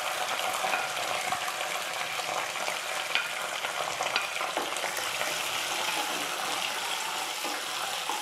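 Garlic cloves and green chillies sizzling steadily in hot oil in a pan, with a wooden spatula scraping and stirring them and a few sharp clicks.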